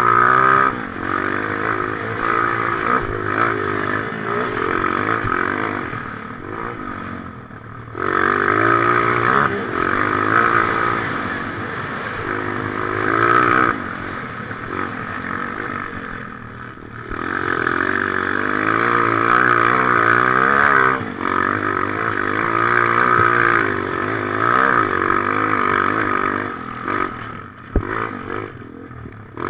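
Motocross motorcycle engine running hard, revving up and easing off again and again, its pitch rising and falling as the throttle is opened and rolled off every few seconds.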